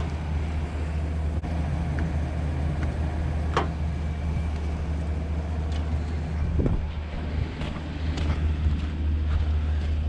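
Truck engine idling steadily, with a few scattered clicks and knocks.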